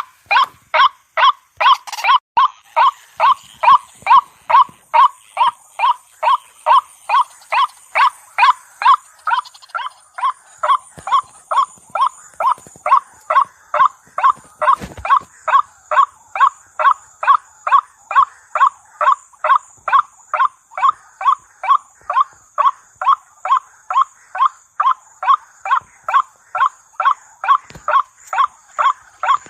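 White-breasted waterhen (ruak-ruak) call, used as a bird-trapping lure: a long, unbroken run of short, harsh 'kwak' notes, about two and a half a second, evenly repeated. A faint steady high hiss runs behind it from about two seconds in.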